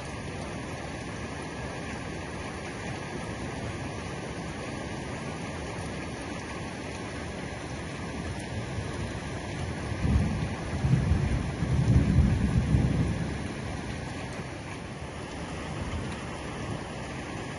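Heavy rain falling steadily on a roof, with a low roll of thunder that swells about ten seconds in and dies away over a few seconds.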